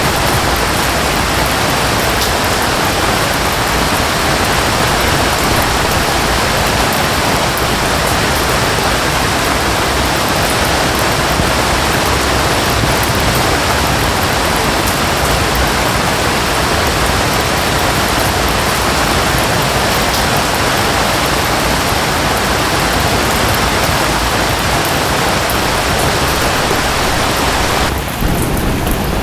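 Waterfall and rain making a steady, dense rush of water. About a second before the end the sound changes abruptly, turning thinner in the middle and upper range.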